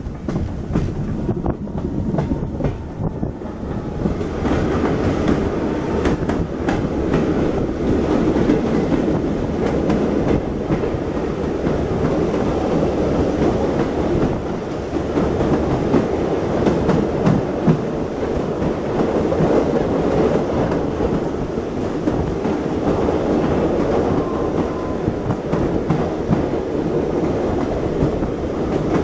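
Moving railway carriage heard from inside: a steady rumble of wheels on the track with clickety-clack from the rail joints, growing louder about four seconds in.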